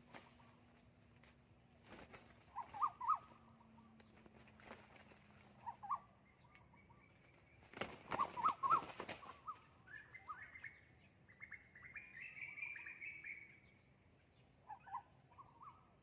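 Decoy red junglefowl calling in short bursts, with a flurry of wing-flapping about eight seconds in and a longer run of calls a little later.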